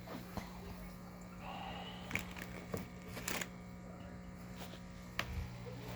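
Quiet room noise: a steady low hum with a few scattered light clicks and knocks.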